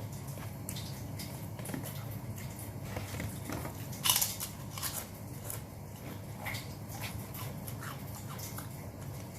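Close-up eating sounds of a person chewing and biting grilled chicken: scattered wet smacks and small clicks, with one sharper, louder bite about four seconds in.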